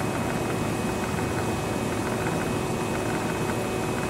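A passenger train running along the track, heard from aboard: a steady rumble and hiss of wheels rolling on the rails, with a faint steady high tone over it.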